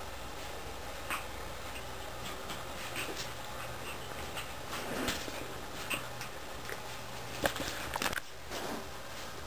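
Small puppies scampering and hopping about, making scattered light clicks and taps, the loudest cluster near the end, over a steady low hum.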